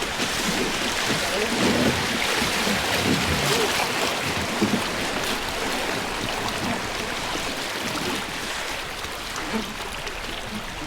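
Fast river water rushing and splashing around a river boat's hull as it runs down the gorge; a steady rush that eases a little near the end.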